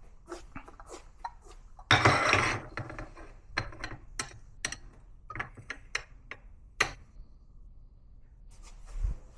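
Small coffee gear and cups being handled: a series of clinks and knocks, with a short, louder rush of noise about two seconds in and a dull thump near the end.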